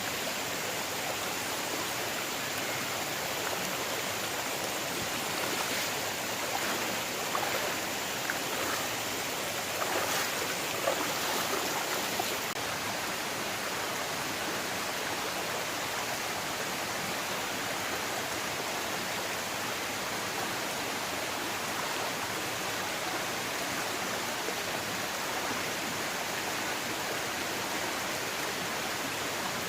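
A stream's water flowing steadily, with a few brief, slightly louder sounds between about six and twelve seconds in.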